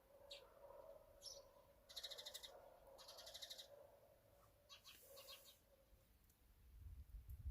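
Faint bird calls: short, rapid high trills, repeated a few times, the clearest about two and three seconds in. Under them runs a faint steady tone that fades out about six seconds in.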